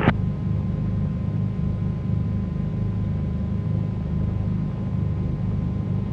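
Cessna 310Q's twin piston engines running steadily at low power, a continuous low drone with a faint steady tone above it. A short radio click sounds right at the start as the preceding transmission ends.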